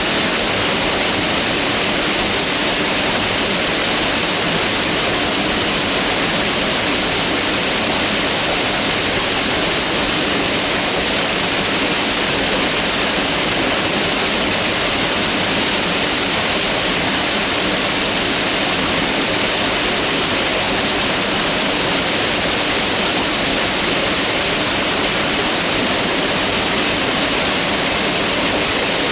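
Mountain river rushing steadily over rocks, a constant dense water noise.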